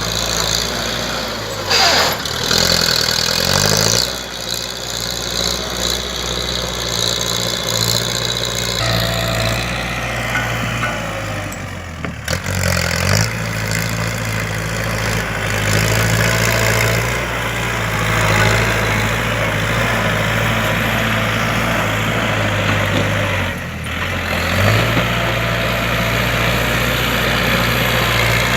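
Kubota L4708 tractor's diesel engine running steadily while pushing and grading soil. Its pitch dips and recovers briefly a few times, about two seconds in, near the middle and toward the end.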